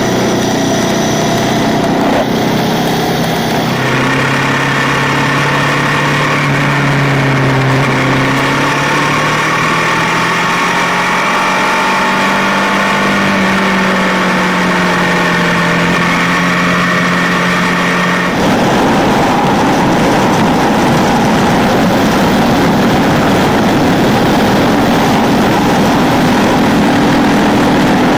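Ducati 999's four-stroke V-twin engine running under way, its pitch holding and then rising slowly. About two-thirds of the way in the sound changes abruptly to a rougher, noisier engine note.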